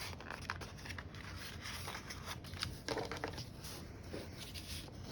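Cardstock being bent along its score lines and rubbed with a bone folder: faint paper rustling and scraping with small ticks, a little fuller about three seconds in.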